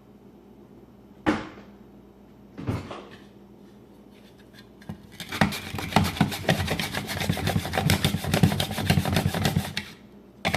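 A peeled russet potato being sliced on a mandolin slicer: two single strokes in the first three seconds, then from about five seconds in a fast, rhythmic run of rasping strokes, several a second, that stops shortly before the end.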